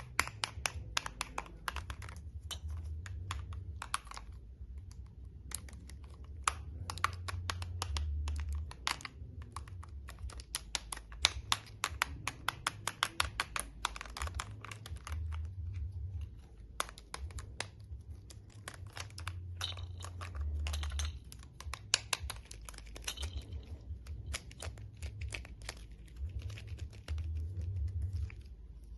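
Rapid, irregular clicking and tapping of handled plastic toys, many small clicks a second in uneven runs, over a low handling rumble.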